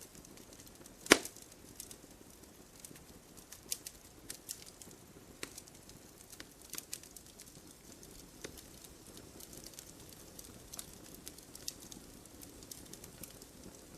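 Firewood burning in a fireplace, crackling: irregular sharp pops and ticks over a soft steady rush of the fire, with one loud pop about a second in.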